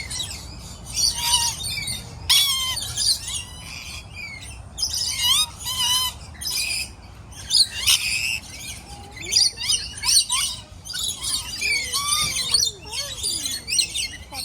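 A flock of small birds chirping and squawking, many quick high calls overlapping without a break.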